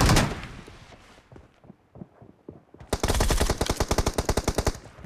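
Automatic gunfire in a shooter video game: a burst dies away at the start, a quiet second or two with a few faint clicks follows, then a rapid burst of about a dozen shots a second from about three seconds in.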